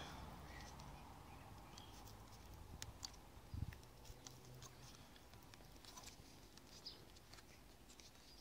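Near silence with faint, scattered small clicks and ticks and one soft knock about three and a half seconds in: hands handling the small metal parts and screw of a GoPro handlebar mount.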